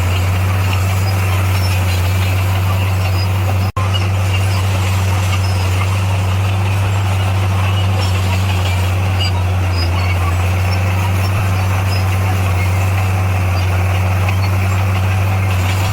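Bulldozer's diesel engine running at a steady, unchanging pitch, with a deep, loud drone, cut off for an instant about four seconds in.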